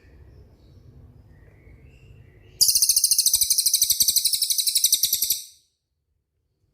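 Songbird giving a loud, very high, rapid rolling trill of even fast pulses for about three seconds. It starts suddenly a little over two seconds in and cuts off abruptly. Faint scattered chirps come before it.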